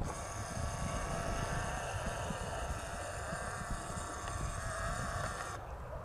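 Aircraft engines running: a steady high whine of several tones over a low rumble. The whine cuts off abruptly about five and a half seconds in while the rumble goes on.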